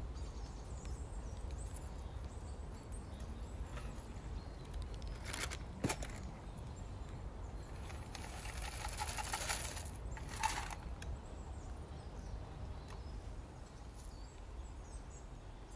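Quiet outdoor ambience with a steady low rumble, broken by short noisy bursts about five to six seconds in and a longer rustling stretch from about eight to ten and a half seconds.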